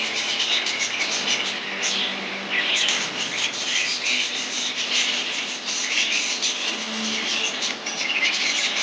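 Budgerigars chirping and chattering together, a dense, steady stream of short, scratchy chirps from several birds at once.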